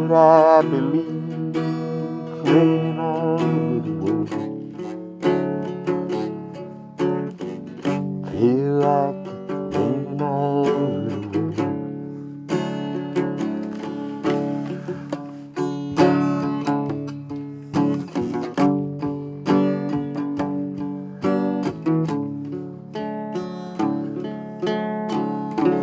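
Acoustic guitar picking and strumming the closing bars of a slow ballad, with a few wavering held notes over it.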